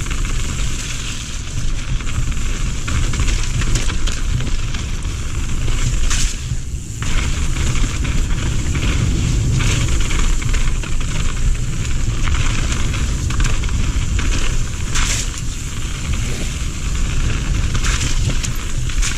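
Radon Swoop 170 full-suspension mountain bike riding a dirt trail: knobbly tyres crunching and rumbling over loose ground, with the bike rattling and knocking sharply over bumps a few times. A low wind rumble runs under it, damped by a wind sock on the action-camera microphone.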